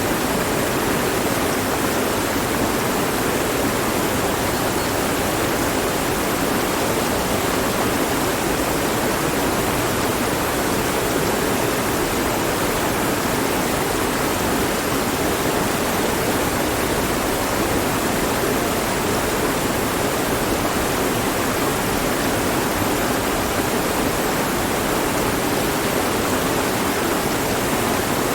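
Mountain stream flowing over rocks, a steady rushing of water.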